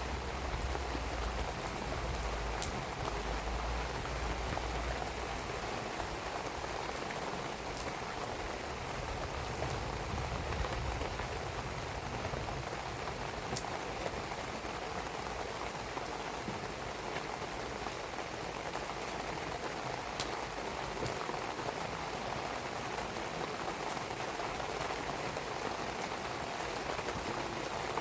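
Steady rain falling, with a wood fire burning and a few sharp crackles from the firewood scattered through it.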